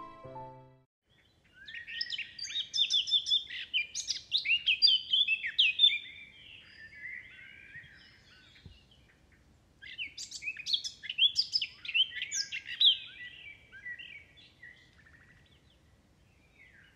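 Songbirds chirping and singing in two bursts of quick, varied high notes and trills, the first about two seconds in and the second about ten seconds in.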